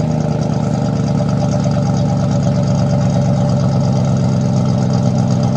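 BMW E39 535i's 3.5-litre V8 idling steadily seconds after a cold start.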